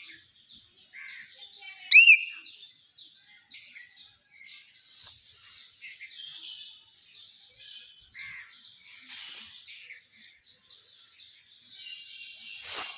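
Hill myna giving one loud, clear whistle that rises and falls, about two seconds in. Behind it, many small bird chirps twitter steadily, and a brief rustling noise comes near the end.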